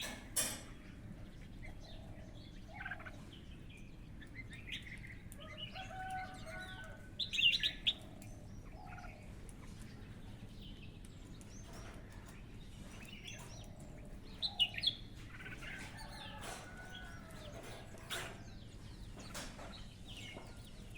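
Several birds calling and chirping: many short, separate calls scattered throughout, with the loudest bursts about seven seconds and fourteen seconds in.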